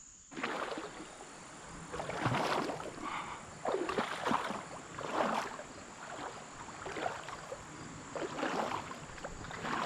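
Someone wading through a shallow creek, the water swishing and splashing with each stride, about one step a second, over a steady high insect trill.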